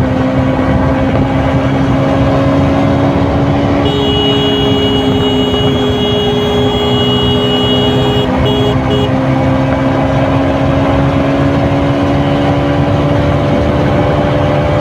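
KTM RC 200's single-cylinder engine and stock exhaust running at a steady cruise on the move, its pitch creeping slowly upward. From about four seconds in, a second steady high tone sounds alongside for about five seconds, then cuts out in a few stutters.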